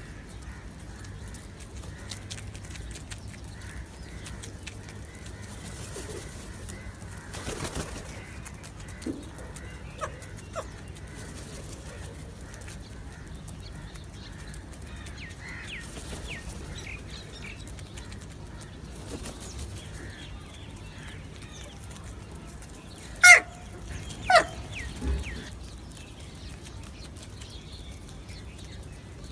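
Birds calling over a steady low hum: scattered faint short calls, then two loud sharp calls about a second apart well past the middle, and a weaker one just after.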